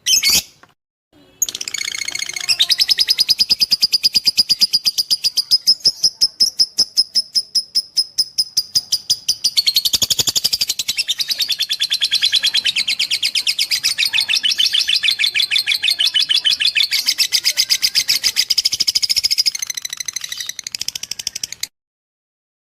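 Lovebird giving a long, unbroken chattering trill of rapid high chirps repeated several times a second, the extended 'ngekek' song prized in fighter lovebirds. It cuts off suddenly near the end.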